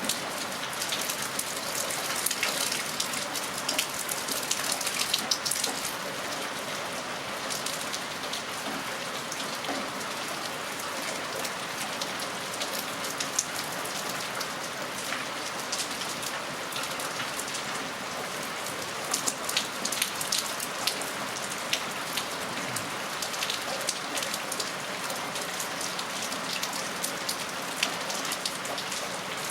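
Steady rain falling, an even hiss with many sharp drop hits close by, heavier bursts of hits a few seconds in and again about two-thirds of the way through.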